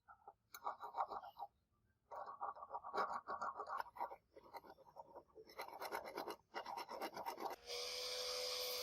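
Rapid scratching and rubbing strokes in several bursts, then near the end a steady hiss with a single humming tone starts.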